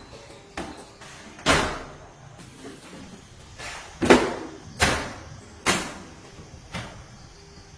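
Five sharp slams or knocks spread over several seconds, each dying away quickly. The first and second are the loudest.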